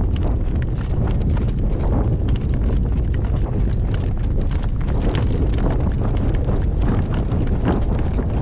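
A horse's hooves clip-clopping at a walk, with strong wind rumbling on the microphone.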